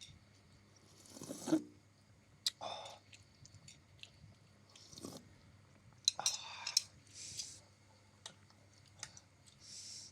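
Close-up eating sounds: a mouthful of egg noodles being chewed, in short separate bursts with sharp mouth clicks between them.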